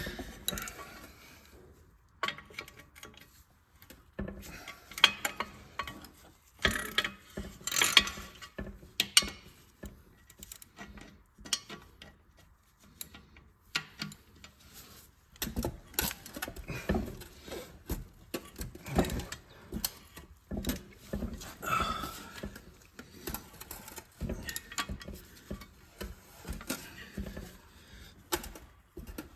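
Hand ratchet clicking in short runs and metal tools and parts clinking as 12 mm bolts are loosened and removed from an engine's transaxle extension bracket.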